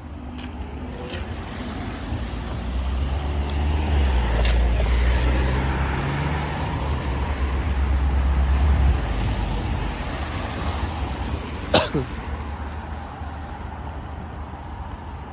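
Road vehicles driving over the level crossing as the barriers open. A heavy engine rumble swells and peaks for several seconds before fading, with a single sharp knock about twelve seconds in.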